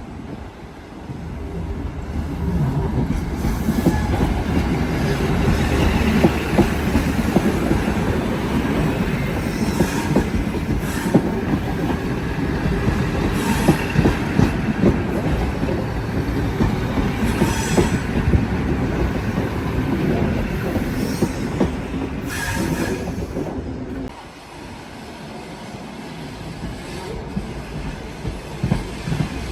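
Train rolling along the rails, wheels clicking over rail joints, with brief wheel squeals. The sound builds over the first few seconds and drops sharply about 24 seconds in.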